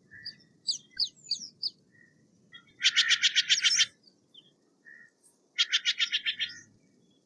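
Steller's jay calling: a few short chirps near the start, then two rapid runs of about ten quick notes each, a couple of seconds apart.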